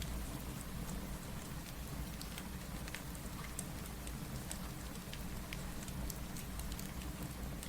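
Steady rain mixed with a crackling wood fire: an even hiss over a low rumble, with scattered sharp pops and crackles throughout.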